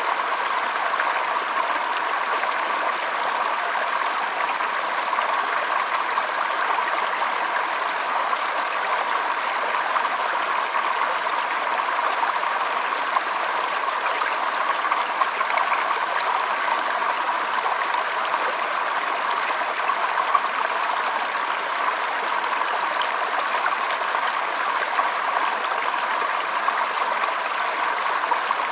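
Shallow stream flowing and trickling steadily over stones, an even, unbroken rush of water.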